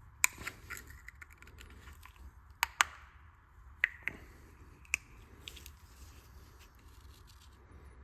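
Sharp metal clicks and light scraping as a steel pick tool pries at a part on an engine: about six clicks, two of them close together, with faint scratching between.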